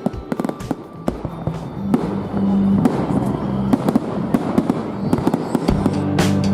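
Fireworks going off in a display: rapid crackling and repeated bangs, with heavier bangs near the end, over background music.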